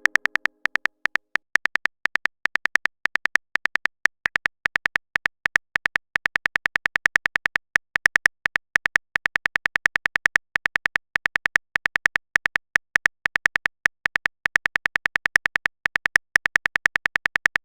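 Simulated phone-keyboard typing clicks from a texting-story app: a long, quick run of short, high-pitched ticks, about six or seven a second, with brief pauses between bursts.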